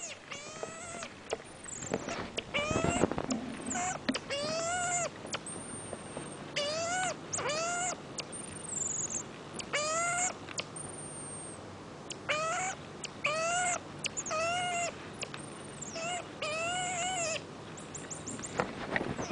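Marmoset monkey calling over and over: short, meow-like arched calls, each well under a second and often two or three in quick succession, with a few thin high-pitched whistles mixed in.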